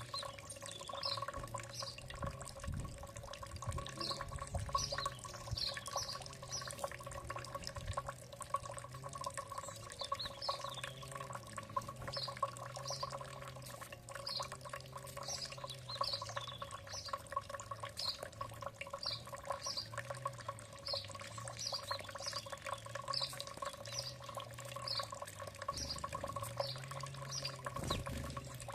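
A bird repeating short, high chirps, about one or two a second, over a steady hum and a light crackle of small clicks.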